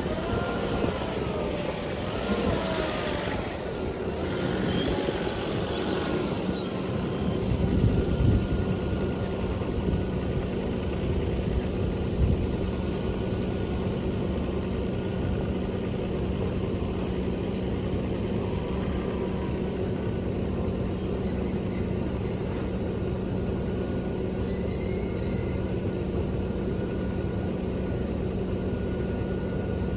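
Truck engine running with road or cab noise, its pitch wavering for the first few seconds and then holding a steady hum.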